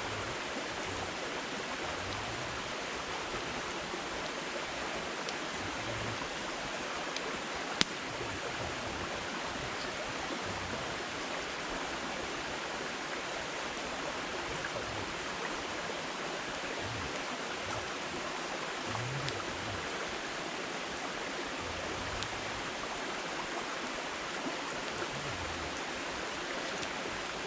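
Wood fire burning with a steady hiss and scattered small crackles, and one sharp pop about a third of the way in.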